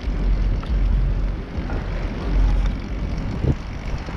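Wind rumbling on the microphone of a moving bicycle, with steady street and riding noise.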